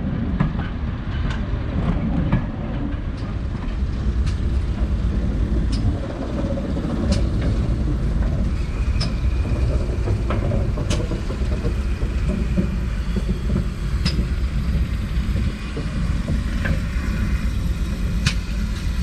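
Steady low rumble of a train running on the South Devon Railway, with irregular sharp clicks every second or two and a faint high squeal around the middle and again near the end.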